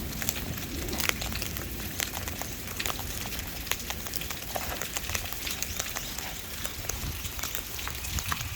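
Steady rain falling, a constant hiss with many sharp separate drops pattering close by.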